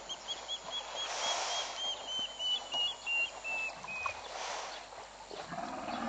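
A bird calling a run of about fifteen short, evenly spaced notes, three or four a second, slowly falling in pitch and stopping about four seconds in, over patchy background noise. Near the end a deeper animal call begins.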